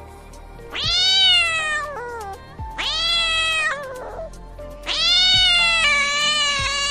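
An animal calling three times: long, drawn-out pitched calls that rise and then fall, the last one the longest, over faint background music.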